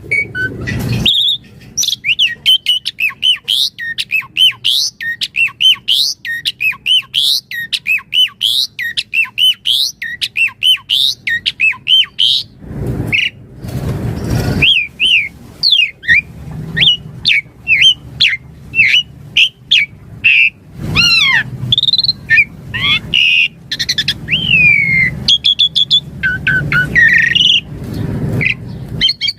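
Asian pied starling singing a varied song: a fast run of short chirping notes at about three to four a second, then mixed whistles, harsh squawking notes and a long falling glide, with a burst of rough noise about halfway through.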